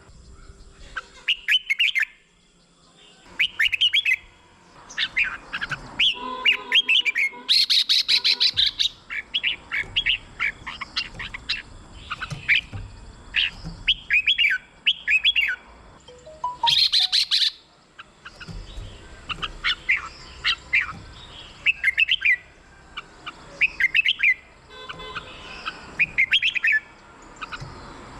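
Red-whiskered bulbuls singing short, bubbly whistled phrases over and over, about one every one to two seconds. Twice, about a quarter and about halfway through, a harsher, noisier chattering burst breaks in.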